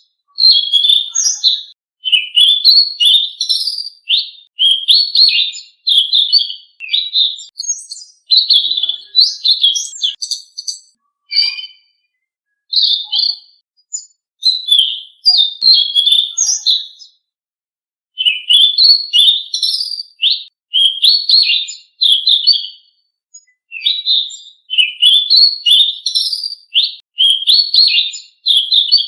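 Selendang biru songbird singing: quick, high, twittering phrases of rapid chirps and trills, one after another with brief pauses and two longer breaks partway through.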